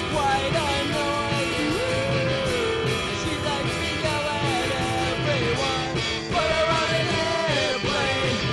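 Rock song with a sung vocal line over a full band: electric guitars, bass and drums in a punk-rock style.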